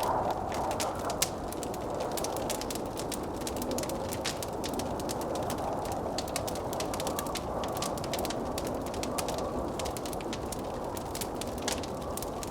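Wood fire crackling, with a dense run of sharp snaps and pops and one louder pop about a second in, over the steady rush of blizzard wind.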